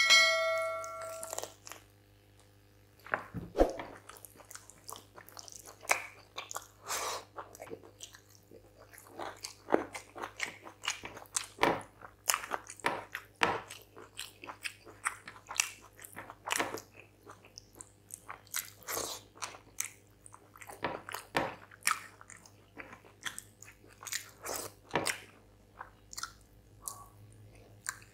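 Close-miked mouth sounds of eating chicken curry and rice by hand: biting, chewing and lip-smacking, heard as many short wet clicks. A short ringing chime sounds at the very start.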